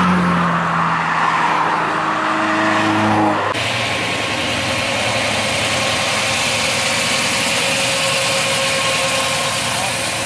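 A car's engine revving up as it drives past, its pitch rising. About three and a half seconds in it changes abruptly to a steadier engine sound from a car rolling slowly by.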